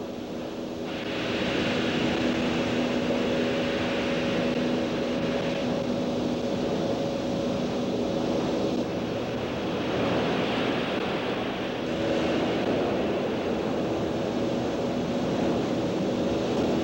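Heavy machinery running: a steady mechanical din with a low, even hum, its hiss swelling and easing every few seconds.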